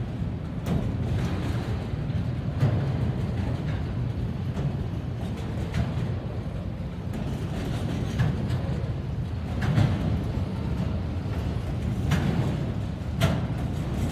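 CSX freight train of autorack cars rolling past: a steady low rumble of wheels on the rails, with occasional sharp clacks at irregular moments.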